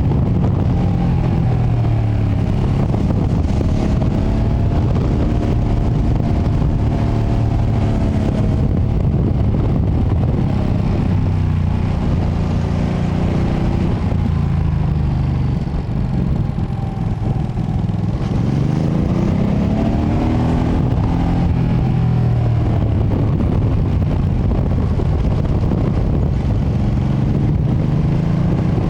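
2025 Ducati Panigale V2S's V-twin engine on its stock exhaust while riding, with wind noise on the microphone. The engine pitch drops as the bike slows about halfway through, then climbs again as it accelerates, and rises once more near the end.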